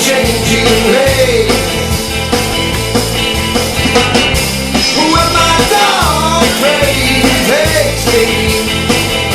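Rock band playing: drums and bass keep a steady beat under a lead melody line that bends up and down in pitch.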